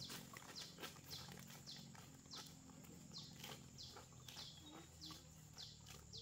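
Faint bird calling over and over: a short high note that slides downward, repeated roughly every half second.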